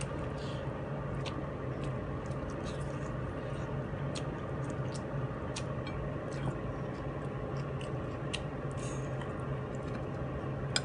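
A person chewing a mouthful of rice and fish, with many small scattered mouth clicks and smacks, over a steady low hum.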